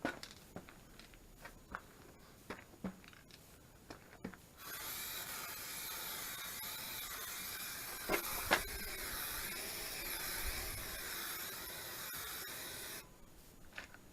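Aerosol spray paint can spraying in one continuous hiss of about eight seconds, starting about five seconds in and cutting off suddenly, with a few light clicks of handling before it.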